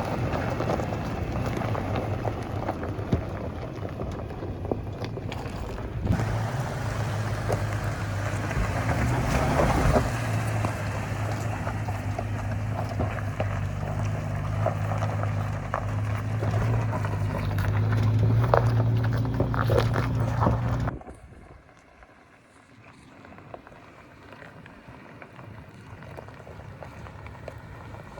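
An engine running steadily with a low hum, mixed with wind noise on the microphone; about three-quarters of the way through it cuts off abruptly to a much quieter background.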